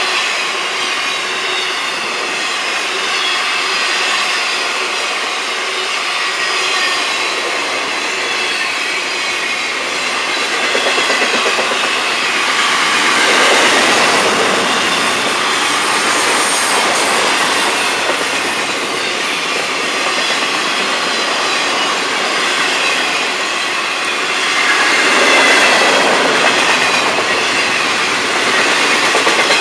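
A long freight train's cars rolling past, steel wheels running on the rails with a thin, wavering high-pitched wheel squeal over the rolling noise. It swells louder twice, about halfway through and again near the end.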